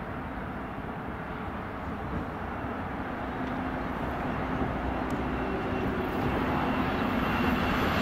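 Eurostar Class 373 high-speed train approaching: a steady rush that grows gradually louder, with a low hum coming in about two seconds in and a higher whine near the end. Steady road-traffic noise lies beneath it.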